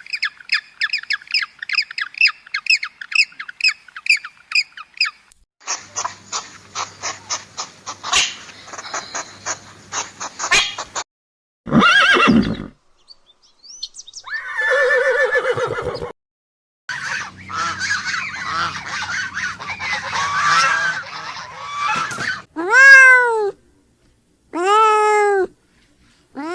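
A string of short animal-call clips cut one after another, mostly bird calls. It starts with a quick run of repeated high chirps, then a stretch of rapid clicking, then several separate squawks and honks. It ends with two loud calls that rise and fall in pitch.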